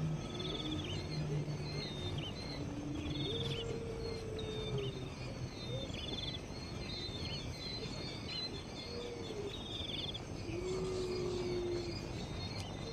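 Birds calling over and over: short high chirps, quick trills and falling notes. Underneath, low drawn-out tones glide up and down.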